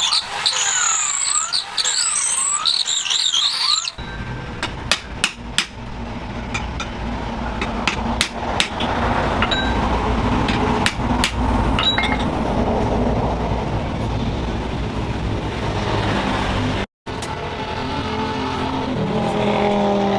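Metalworking in a forge workshop. For the first few seconds there is a high squealing, wavering grind, like steel held to a grinder. After an abrupt change come several sharp metallic clinks over a steady low motor drone.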